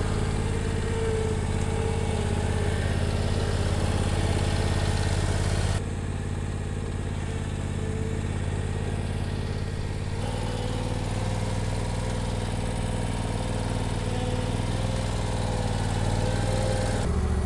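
Bad Boy Elite zero-turn lawn mower's engine running steadily, its note dropping and getting a little quieter about six seconds in and shifting again around ten seconds in.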